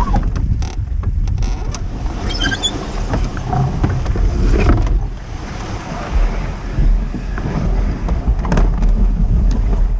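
Canoe under way: heavy wind rumble on the microphone over water sounds, with scattered short knocks.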